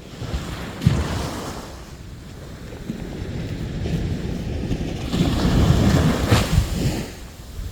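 Sea waves breaking and washing up on a beach, one short surge about a second in and a bigger, louder wave from about five to seven seconds, with wind buffeting the microphone.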